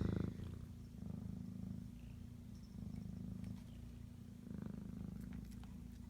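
Cat purring close to the microphone: a steady low rumble that swells and eases with each breath, roughly every two seconds.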